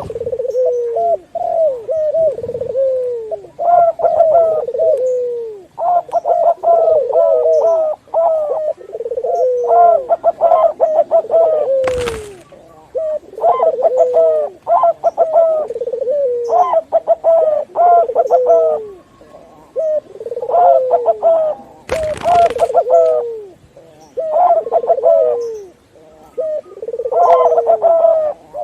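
Several doves cooing over one another, the mix of zebra dove (perkutut), barbary dove (puter) and spotted dove (tekukur) calls: repeated phrases of quick stuttering notes, each ending in a drawn-out falling coo. Two short scratchy bursts of noise cut in, about twelve seconds in and again about ten seconds later.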